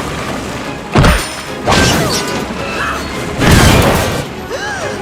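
Cartoon impact sound effects: a sharp hit about a second in, then two heavier crashing booms, over background music.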